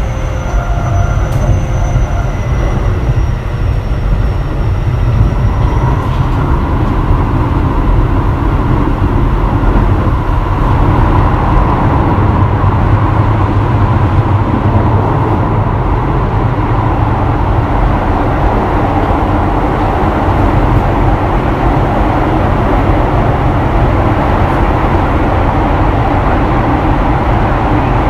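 Keio 7000 series electric train running at speed, heard from inside the car: steady wheel-on-rail rolling noise and body rumble. Faint whine from the Hitachi IGBT inverter and traction motors, falling slightly in pitch, fades out over the first six seconds.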